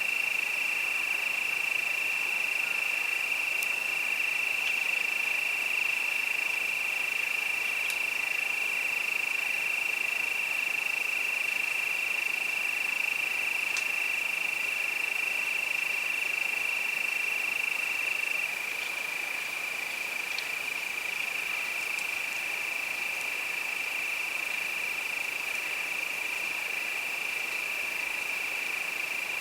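Crickets chirping in a steady, continuous high-pitched chorus, a little quieter after about eighteen seconds.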